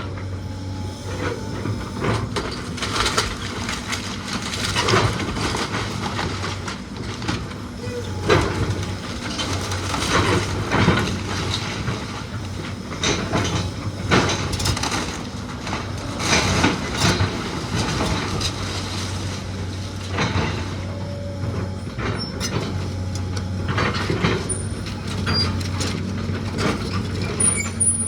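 An engine runs steadily under repeated cracking, creaking and crashing of wood and debris as the old house is torn down.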